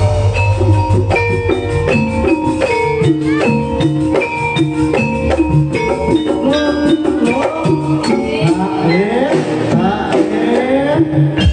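Jaranan music: a Javanese ensemble of struck, ringing metal-keyed notes over a steady drum pulse. A sliding, wavering melody line comes in from about two-thirds of the way through.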